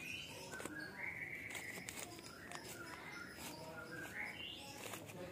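Birds chirping: a series of short whistled notes, several stepping upward in pitch, over faint scattered clicks.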